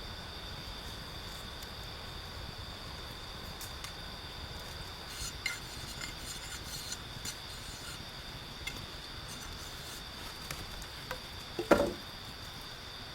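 Insects droning in a steady high-pitched buzz, with scattered light clicks and knocks and one louder knock near the end.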